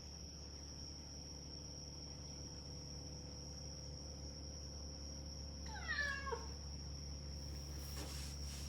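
A cat meows once, about six seconds in: a short call that falls in pitch. Under it runs a steady high tone and a low hum.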